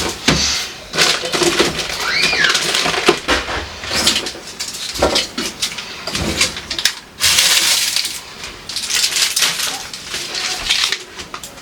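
Irregular clattering, knocking and rustling of food containers and bags as a refrigerator is emptied out, with a short squeak about two seconds in.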